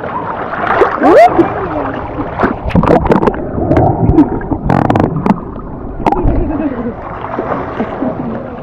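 Water splashing and gurgling around a swimmer, with scattered sharp splashes and indistinct voices in the background.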